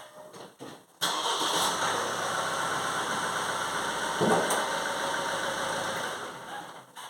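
Car engine starting abruptly about a second in and running for about five seconds, with a brief rise near the middle, then switched off and dying away.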